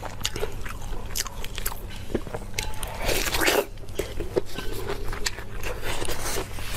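Close-up eating sounds: a person biting and chewing food, with crunching and wet clicks, and a louder crunching burst about three seconds in.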